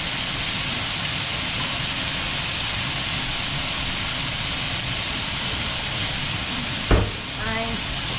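Chopped tomatoes sizzling in hot vegetable oil in a frying pan, a steady hiss. A single sharp knock about seven seconds in.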